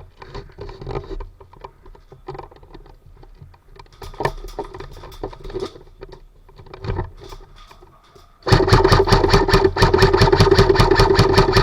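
Airsoft electric gun firing on full auto: a rapid, even rattle over a steady motor whine, starting about eight and a half seconds in and running on. Before it, scattered clicks and knocks.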